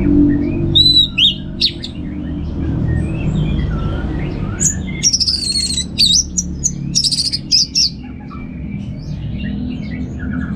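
Orange-headed thrush singing a rambling song of quick, varied whistled and chattering phrases, with loud clusters of notes about a second in and again around the middle, over a low steady hum.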